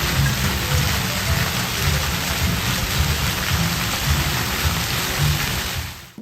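Heavy rain pouring down in a tropical storm, a dense steady hiss with a heavy uneven low rumble underneath; it fades out near the end.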